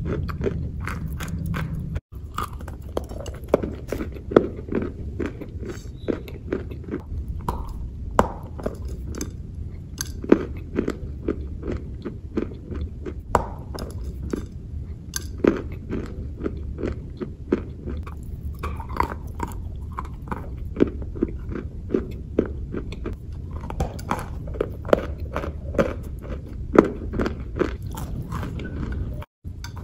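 Close-miked eating sounds: biting and chewing a crunchy, chocolate-marbled sweet bar, with irregular sharp crunches several times a second over a low steady hum. The sound drops out for an instant about two seconds in and again near the end.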